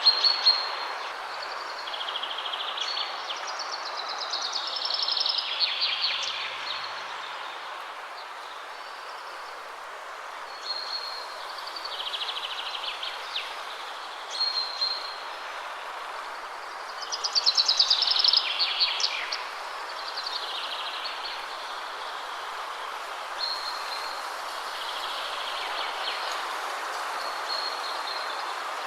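Steady wind rushing through trees, with songbirds singing over it. Several song phrases come and go, the loudest about five and about eighteen seconds in, each a fast trill dropping in pitch.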